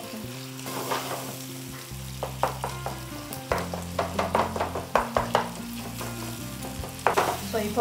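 Minced chicken sizzling in hot oil in a non-stick frying pan, stirred and scraped with a wooden spatula; a run of quick spatula strokes comes between about two and five seconds in, and again near the end. Steady low tones sound underneath.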